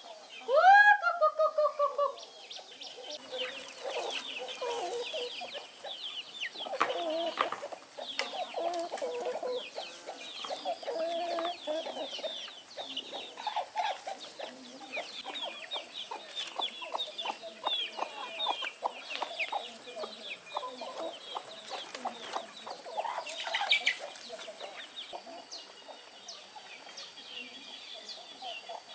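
A flock of chickens clucking and calling, with one loud rising-then-falling squawk about a second in and many short clucks and peeps after it.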